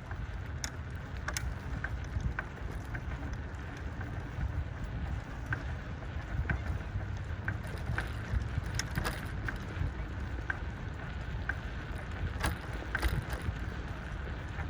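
Wind rumbling on the microphone of a moving bicycle, with scattered sharp clicks and rattles from the bike riding over a rough trail.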